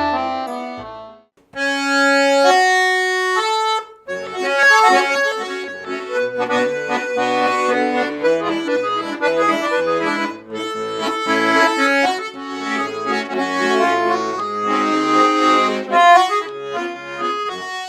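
Accordion playing an instrumental introduction: a brief break about a second in, a few held chords, then from about four seconds a lively melody over bass notes.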